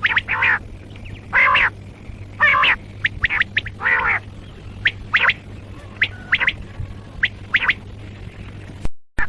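Common quail calling: a run of short, sharp notes mixed with a few longer, harsher calls, repeated irregularly, over a steady low hum.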